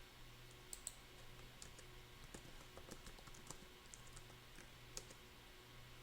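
Faint, irregular clicks of typing on a computer keyboard, a dozen or so keystrokes scattered through a near-silent room, over a faint low steady hum.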